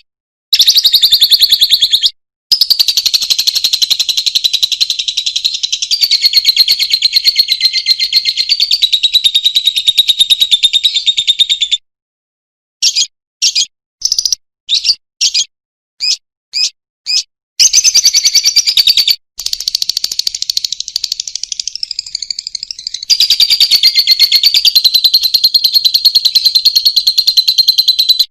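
Lovebird singing long, very rapid, high-pitched chattering trills, the long 'ngekek' song that bird keepers prize. The trilling breaks off about halfway through for a string of short separate chirps, then starts again.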